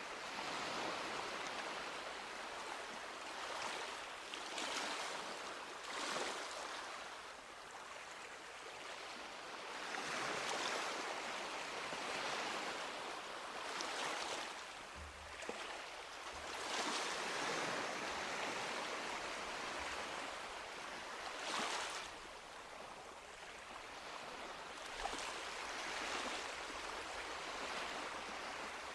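Small sea waves breaking and washing up a beach, each wash swelling and falling back every few seconds as a hiss with little low rumble.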